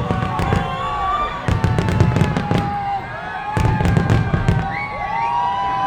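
Fireworks exploding in three rapid volleys of sharp, crackling bangs about two seconds apart, with long wavering whistle-like tones sounding over them.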